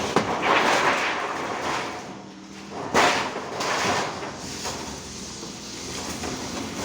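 Knocks and scraping from construction work: a sharp knock just after the start and a louder one about three seconds in, with scraping and rustling between.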